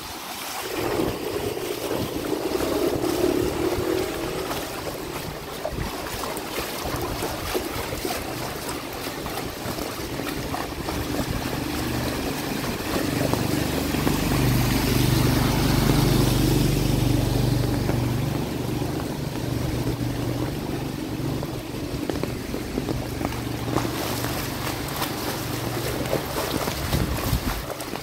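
Rain falling and floodwater running on a street, a steady wash of noise, with a motor vehicle's engine passing close through the middle stretch, loudest about halfway through.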